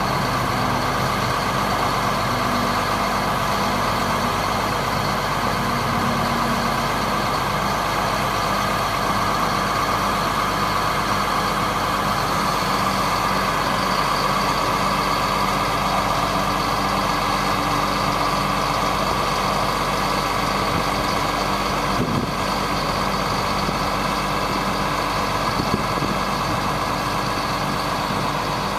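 1999 GMC digger truck's engine running steadily at idle: a constant hum with a steady higher whine over it.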